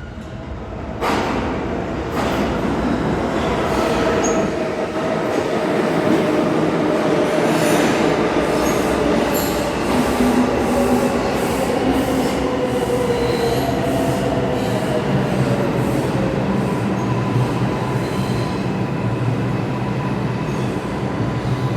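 NYC Subway R142A train running on the rails, with wheel squeal and the clicking of rail joints. Its whining tones slide down in pitch through the middle, and a steady low hum takes over near the end.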